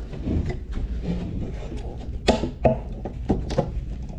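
A series of knocks and thuds from objects being handled and set down, with four sharper knocks in the second half.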